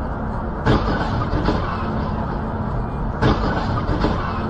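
Steady noise of a car driving on the road, with two short thumps, one just under a second in and one about three seconds in.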